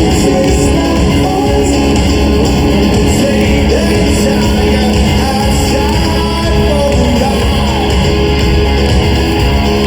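Live rock band playing loudly with singing, recorded from the audience in a large, echoing concert hall.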